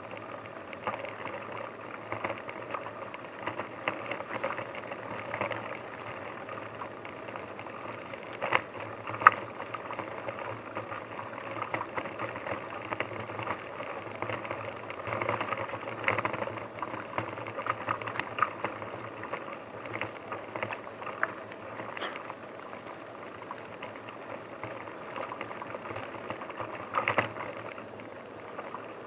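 Steady rustling with many small crackles and clicks, and a few louder sharp snaps about eight and nine seconds in and again near the end.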